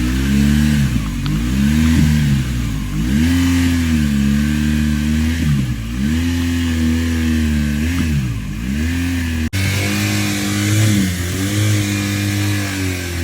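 Motorcycle engine revved again and again, its pitch rising and falling in waves every couple of seconds, then running at a steadier pitch near the end. The bike is not moving or climbing despite the revs, a loss of drive that the rider puts down to the clutch.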